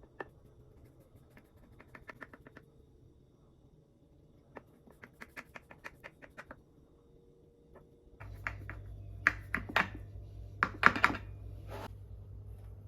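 Quick runs of light taps and clicks, like kitchen work on a counter. About eight seconds in, a low electric hum comes on, with several louder knocks and scrapes over it.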